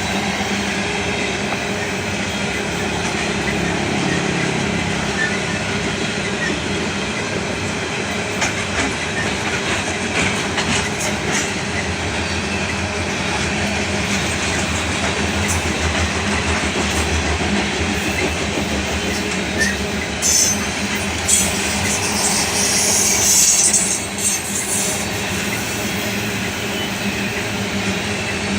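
BNSF coal train's cars rolling past at speed: a steady, loud noise of steel wheels running on the rails, with short high-pitched squeals a little after 20 seconds in.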